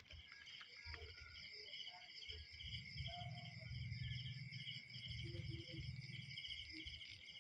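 Faint chorus of chirping insects: a steady high trill with a pulsing chirp about twice a second. A low rumble of wind or handling noise runs through the middle.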